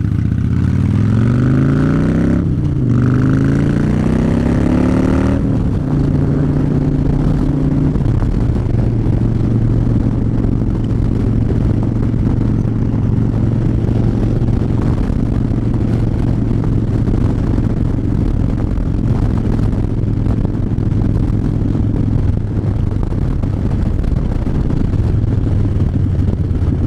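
Harley-Davidson V-twin motorcycle engine accelerating, revs rising, dropping at an upshift about two and a half seconds in and rising again, then settling into a steady cruise.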